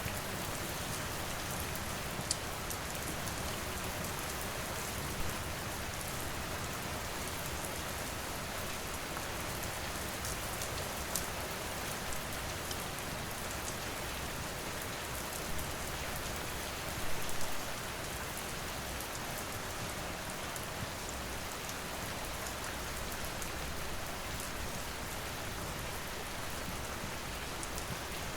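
Steady rain falling, with a wood fire crackling now and then: scattered sharp snaps and a short cluster of louder pops a little past halfway.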